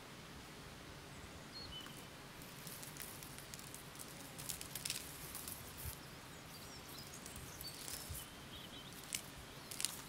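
Faint, distant songbird chirps and calls scattered over a steady outdoor hiss, with a few brief rustles in the middle and twice near the end.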